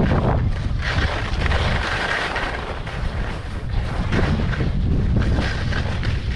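Wind buffeting the microphone while skiing, with the hiss of skis sliding over snow that swells and fades.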